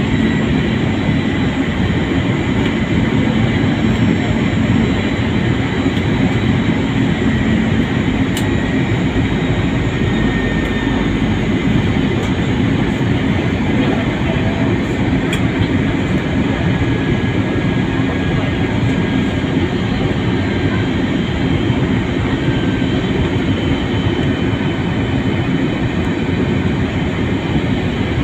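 Steady roar of an airliner's engines and rushing air heard inside the cabin, with a low hum underneath.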